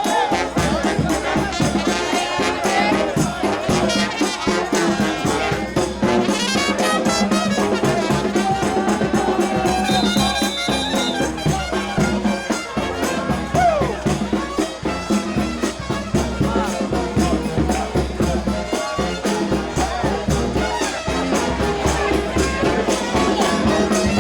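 New Orleans brass band playing second-line parade music: trumpets and trombones over a steady drum beat.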